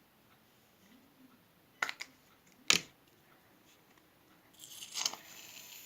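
A few sharp clicks, the loudest a little under three seconds in, then an aerosol can of shaving cream hissing for about a second and a half near the end as foam is dispensed.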